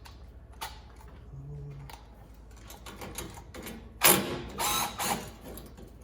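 Hand tools and metal parts being handled: scattered small clicks and knocks, with a louder scraping rasp about four seconds in that lasts about a second.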